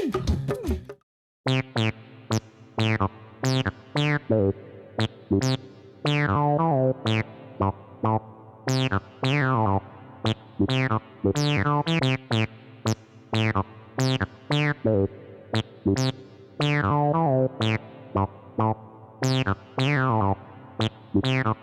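A synthesizer melody of short plucked-sounding keyboard notes, several a second, starting after a brief silence about a second in.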